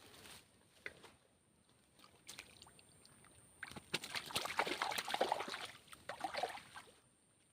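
Water splashing and sloshing in a burst of about three seconds, busy with small clicks, after a few quieter scattered splashes.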